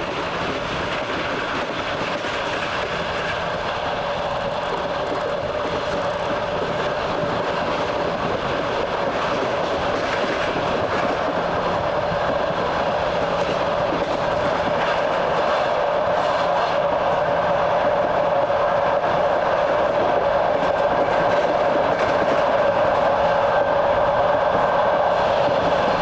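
Train running along the track, its wheels rumbling and clattering on the rails under a steady droning tone, slowly growing louder.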